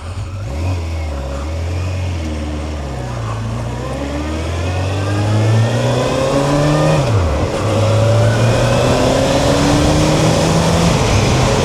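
Suzuki GSX1400's inline-four engine pulling away under acceleration. The revs climb, fall back sharply at a gear change about seven seconds in, then climb again, with wind noise underneath.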